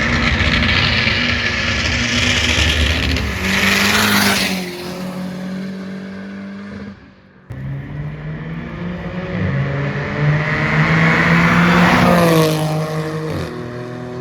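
Car engines accelerating hard and passing close by, their pitch falling as they go past. This happens twice, with an abrupt break about halfway.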